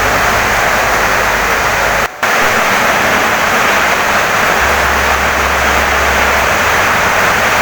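Heavy rain pouring steadily on a wooden house, a dense even hiss that dips for a moment about two seconds in.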